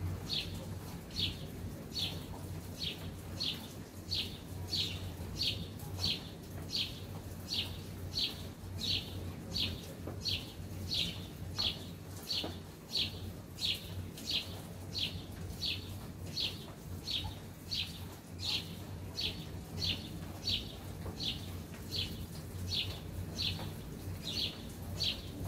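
A bird repeating one short, high chirp over and over at a steady pace, about three chirps every two seconds, over a steady low rumble.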